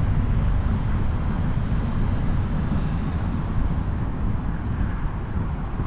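Wind buffeting the microphone: a loud, steady low rumble with irregular flutter, over the noise of a city street.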